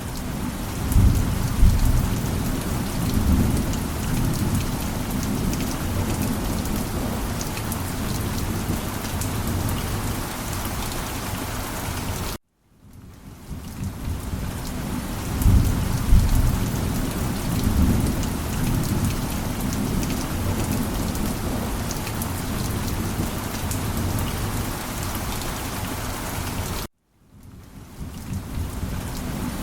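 Steady heavy rain with low rumbles of thunder. The sound cuts out abruptly twice, at about 12 s and 27 s in, and fades back in each time, with a thunder rumble a second or two after the first return.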